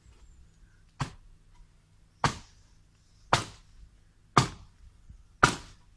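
Five sharp, heavy blows struck by hand with a tool, evenly paced about a second apart, as in chopping or hammering during hedge removal and fence work.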